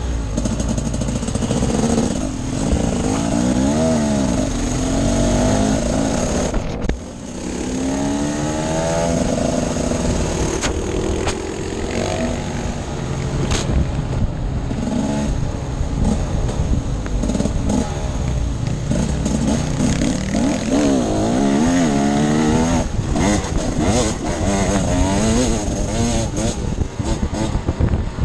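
Enduro dirt bike engine being ridden off-road, revving up and down again and again as the throttle is worked. There is a brief drop in engine sound about seven seconds in before it picks up again.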